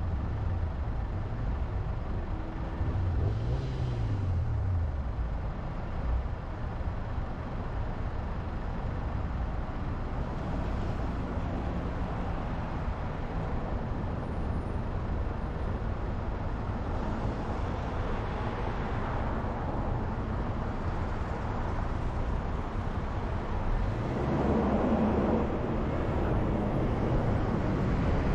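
Steady road and engine noise of a car being driven. About three seconds in, a deeper engine note rises and falls, and the noise grows louder near the end.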